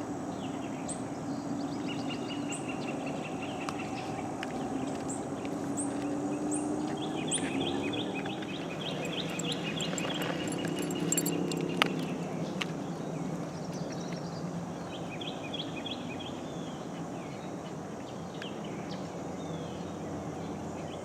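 Wild birds calling and chirping: short high chirps repeating in the first several seconds and patterned calls throughout, over a steady low hum. There is one sharp click a little past halfway.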